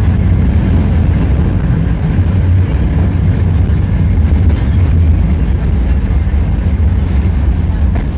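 Tram running along the line, heard from inside the passenger car: a steady, loud low rumble of the wheels on the rails and the running gear.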